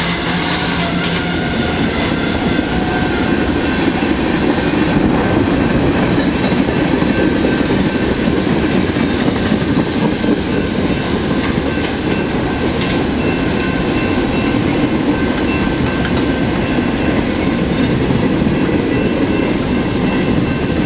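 Norfolk Southern freight train's cars rolling past: a steady, dense rumble of steel wheels on rail that continues without a break.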